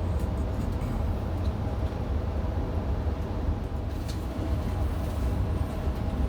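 Passenger train running between stations, heard from on board: a steady low rumble of wheels on track, with a few faint clicks.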